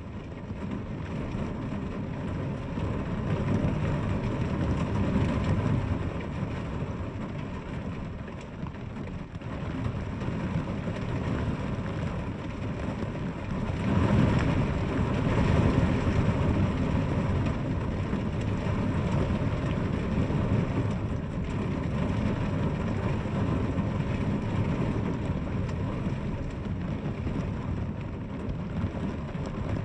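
Steady heavy rainfall with a deep rumbling undertone, swelling louder for a few seconds about halfway through.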